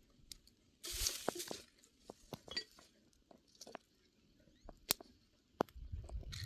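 Scattered light clicks and clinks, with a short rustle about a second in and low handling noise starting near the end.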